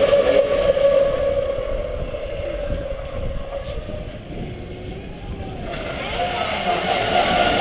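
Pro Boat Miss Geico RC racing boat running flat out on a 6S LiPo, its electric motor and propeller giving a steady high whine. The whine fades as the boat runs away and grows louder and slightly higher again near the end as it comes back, with wind rumble on the microphone underneath.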